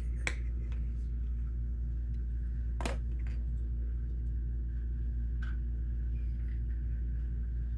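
Plastic Lego pieces being handled: a few sharp clicks, the loudest about three seconds in, over a steady low hum.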